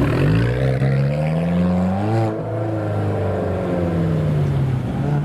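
Supercar engine revving hard as the car accelerates, its pitch climbing for about two seconds, breaking off briefly, then sinking slowly away.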